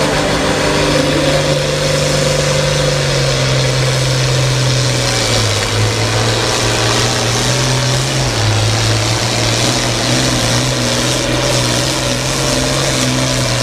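International Harvester 966 pulling tractor's diesel engine running hard under full load during a pull. Its low engine note drops in pitch twice, about five and about eight seconds in.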